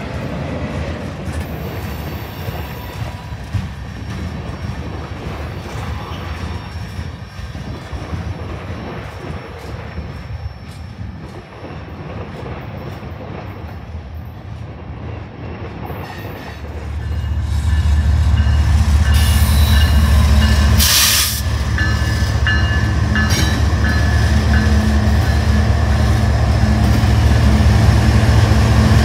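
Freight cars rolling over the rails. About two-thirds of the way through, BNSF diesel locomotives come by close and the sound jumps to a heavy, steady rumble of engines and wheels, with high wheel squeal for a few seconds soon after.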